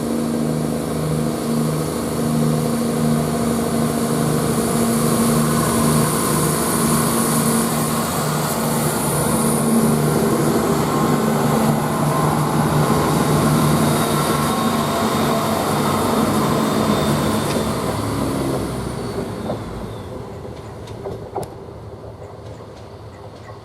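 Class 170 Turbostar diesel multiple unit pulling away from the platform, its underfloor diesel engines running steadily under power. It then fades away as the train leaves, from about 19 seconds in.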